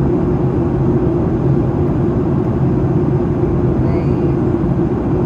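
Steady cabin noise inside a Boeing 737-800 in flight, a constant low drone of the CFM56 engines and airflow over the fuselage.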